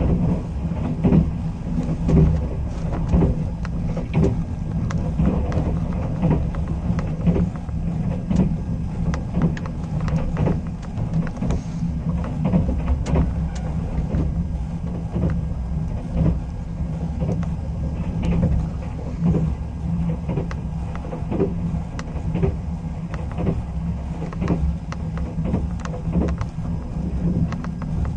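Sleeper express passenger car running at speed, heard from inside the cabin: a steady low rumble with frequent clicks and knocks of the wheels on the rails.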